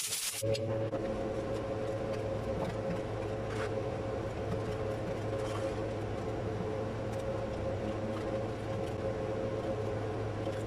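A steady machine hum with a constant low tone and a higher tone above it, starting just after a brief dropout and holding unchanged.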